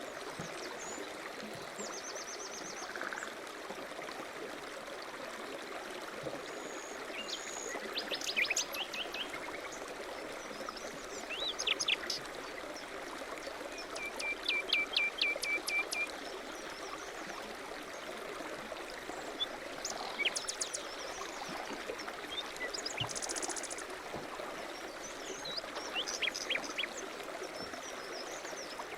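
Outdoor birdsong: short high chirps and quick trills in scattered phrases, one a run of about eight quick repeated notes, over a steady background hiss.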